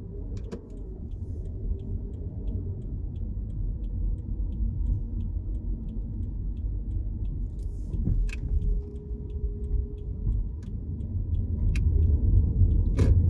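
Low, steady road and engine rumble inside a moving car's cabin, with a light ticking about twice a second through most of it and a few sharp clicks, the loudest near the end.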